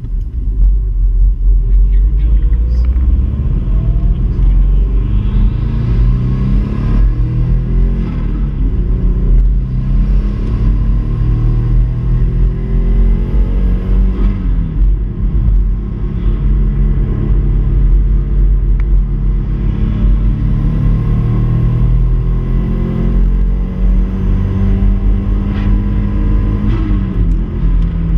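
Subaru Impreza 2.5RS flat-four engine being driven hard. Its pitch climbs under acceleration and drops back at each gear change, over a heavy low road and wind rumble.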